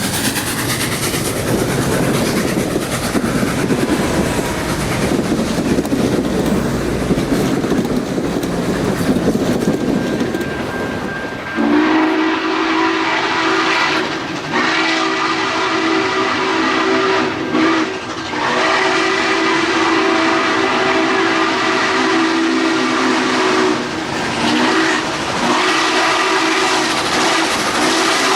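Norfolk & Western 4-8-4 No. 611 steam locomotive running by, a heavy rumble with wheel clatter on the rails. About twelve seconds in, its steam whistle sounds a chord in several long blasts with short breaks.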